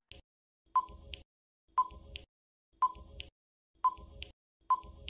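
Quiz countdown-timer sound effect: short electronic ticks, about one a second, each with a brief beep-like tone.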